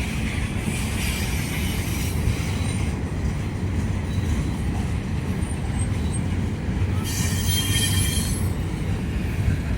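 CSX freight train's cars rolling past with a steady rumble of wheels on rail, and a high-pitched wheel squeal from about seven seconds in that lasts a second or so.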